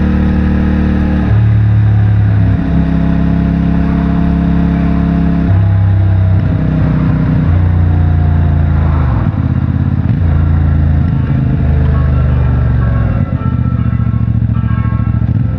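CFMOTO 450MT's parallel-twin engine through its stock exhaust under way, its note holding steady at one engine speed, then stepping or gliding to another several times as the throttle and gears change.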